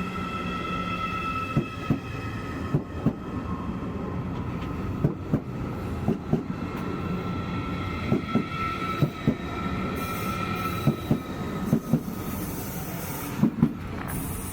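Train rolling slowly through the station, its wheels knocking over rail joints and points in quick pairs, bogie after bogie, over a low rumble. A high steady squeal sounds along with them.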